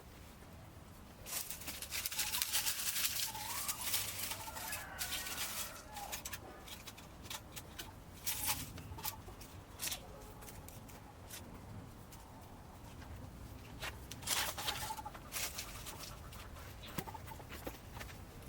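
Chickens clucking now and then, mixed with bursts of crackling noise.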